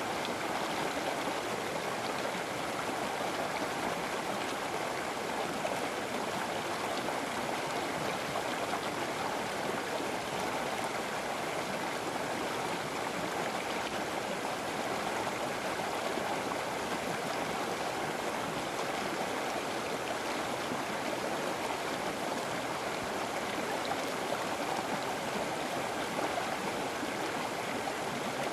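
River water flowing over rocks, a steady rushing and gurgling that does not change.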